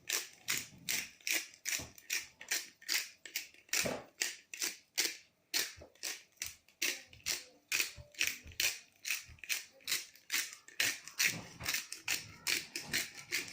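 Black pepper shaker being shaken over raw chicken, rattling in a steady rhythm of about four shakes a second.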